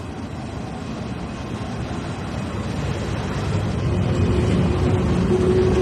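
Taiwan Railway train approaching through the station, its rumble growing steadily louder. A steady hum joins in about four seconds in.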